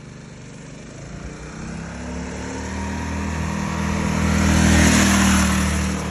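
Small engine of a three-wheeled mini bike running under way, growing steadily louder as it comes closer and passing loudest about five seconds in, then dropping back slightly.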